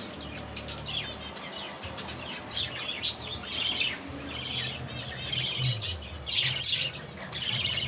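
A flock of small caged birds, finches among them, chirping and twittering in many quick overlapping calls, over a faint low hum.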